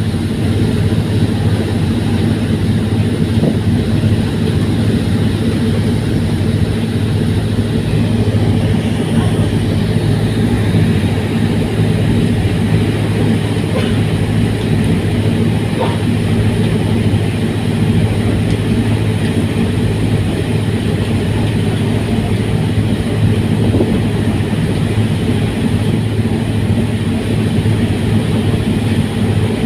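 Fast passenger ferry's engines running at steady cruising power: a loud, even, low drone with no change in pitch.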